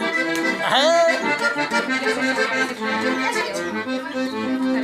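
Accordion playing a tune, with held chords and shifting melody notes.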